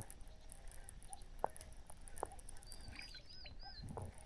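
Quiet open-air ambience with a few sharp soft clicks, and a bird calling a short run of four quick, high, arched notes about three seconds in.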